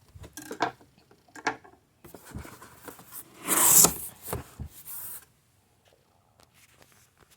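Cardboard box being opened by hand: scattered scrapes and taps of cardboard and packing, with one louder rasping burst about three and a half seconds in, then it goes quiet for the last couple of seconds.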